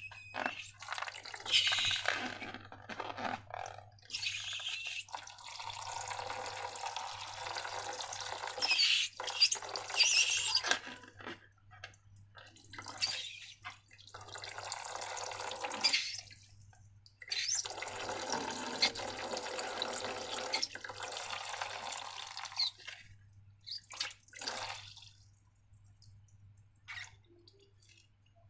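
Wet sounds of liquid slime pouring and dripping in three long stretches, with short taps and clicks between them.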